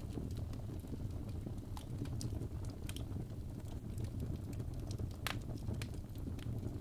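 Fireplace with a steady low rumble of burning wood and irregular crackles and pops, one sharper pop about five seconds in.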